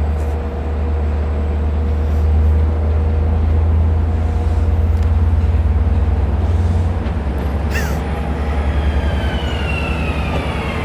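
A train running close by. A heavy low rumble turns into a fast rhythmic beat about seven seconds in. There is a sharp click near the eight-second mark, then a thin high whine that slowly falls in pitch near the end.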